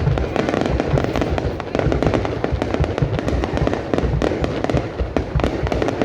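A fireworks display going off without pause: dense overlapping cracks and low bangs.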